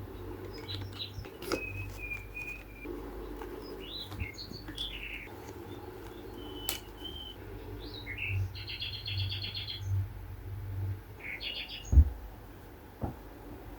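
Small birds chirping and calling, with a quick trill of repeated notes about nine seconds in. A single dull thump near the end is the loudest sound.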